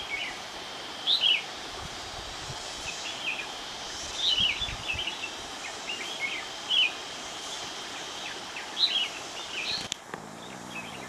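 Bird calls in forest: short chirping phrases that come every couple of seconds, over a faint steady high-pitched hum and background hiss.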